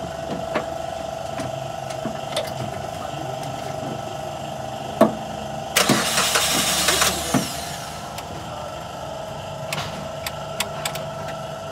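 Suzuki WagonR's 1.0-litre three-cylinder petrol engine running steadily with a constant hum. About six seconds in comes a loud hissing rush lasting about a second and a half, and there are a few sharp clicks.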